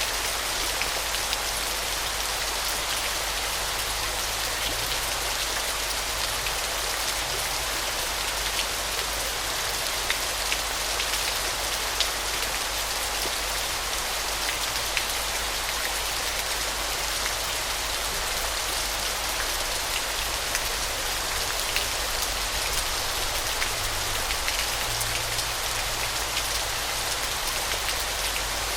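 Waterfall: a steady, even rush of falling water with a fine crackle of splashing droplets over a low rumble.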